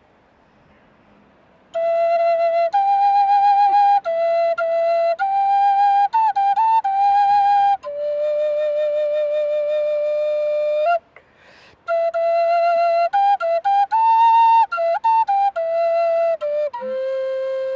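Solo flute playing a slow melody: it comes in about two seconds in with short notes, holds one long low note, pauses briefly for breath about eleven seconds in, then goes on with quicker notes and settles on a lower note near the end.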